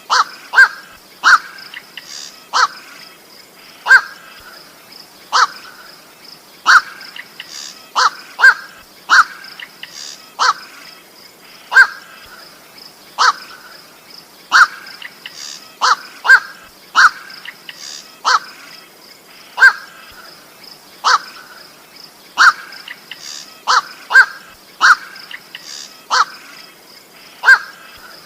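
Black-crowned night heron (koak) giving short single calls, about one a second, some in quick pairs.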